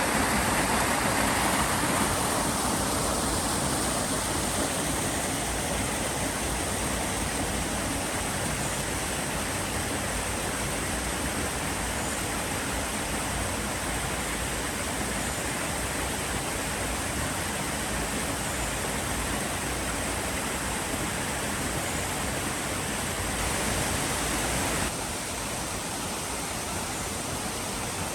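Steady rush of cascading water in a mountain stream.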